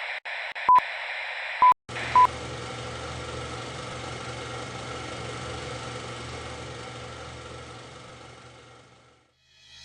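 Three short electronic beeps, all at one pitch, with sharp clicks, over a hiss. About two seconds in it turns to a steady hiss with a low hum, which fades away near the end.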